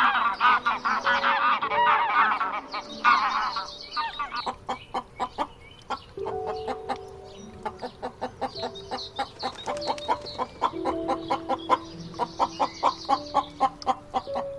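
Chickens clucking and calling, a dense flurry of calls in the first few seconds, then scattered calls over light background music of short plucked notes.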